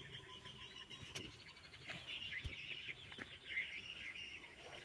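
Small birds chirping and twittering, with a few faint clicks and knocks.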